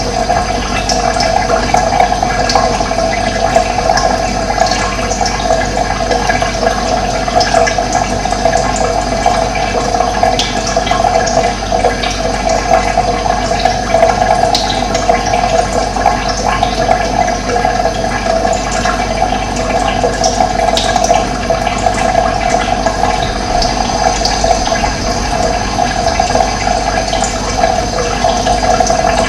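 Running water flowing steadily, with birds chirping faintly now and then.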